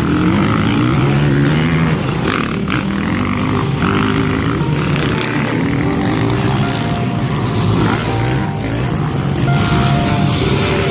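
Dirt bike engines running and revving, their pitch rising and falling.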